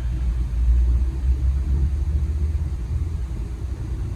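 A steady low rumble, deep and continuous, which starts abruptly just before and carries on throughout.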